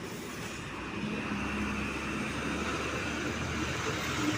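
Road traffic with a vehicle engine running, its low drone growing louder about a second in.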